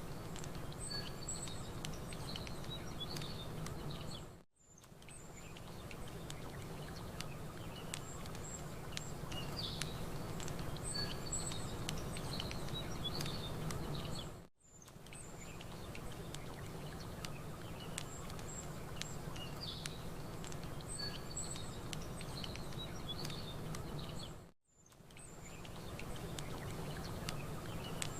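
Campfire crackling over a steady wash of outdoor noise, with small birds chirping high and briefly. The sound dips almost to silence three times, about every ten seconds, and the same chirps return after each dip: a short ambience recording on a loop.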